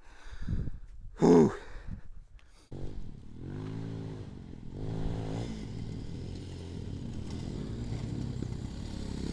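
A heavy exhale after exertion, then an enduro motorcycle engine comes in suddenly nearly three seconds in. It revs up and down a few times, then runs on steadily.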